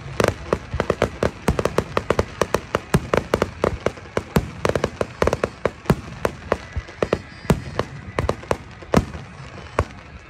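Fireworks bursting in quick succession: a dense run of sharp bangs several times a second, growing sparser toward the end.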